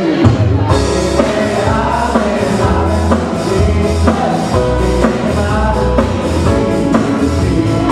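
Live band playing a song with a singer, a bass line coming in right at the start.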